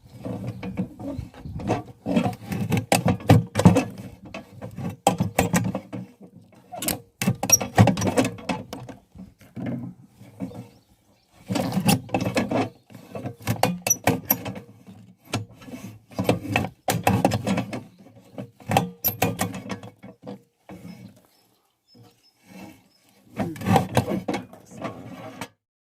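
Dry sticks or stalks being cut and snapped by hand: irregular bursts of cracking and knocking, with a lull shortly before the end.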